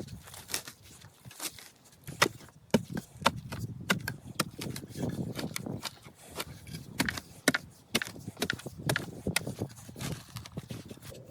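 Irregular sharp knocks and clicks over dull thuds, from hand work on a shelter build, with no steady rhythm.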